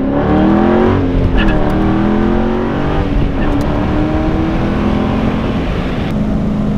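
Dodge Challenger T/A 392's 6.4-litre HEMI V8 heard from inside the cabin, accelerating with its pitch climbing and dropping back twice as it shifts up, then settling into a steady cruising drone.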